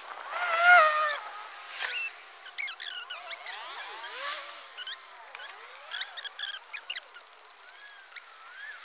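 Birds chirping and calling, many short rising and falling calls overlapping, with one louder wavering call about a second in.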